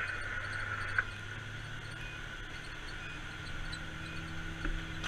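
Fire engine idling: a steady low hum with a faint, thin, steady whine above it.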